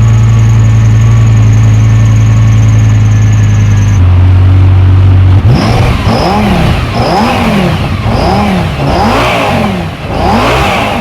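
Lamborghini Gallardo's V10 engine heard through its newly fabricated custom exhaust: a steady idle for the first few seconds, then about six quick revs, each rising and falling in pitch.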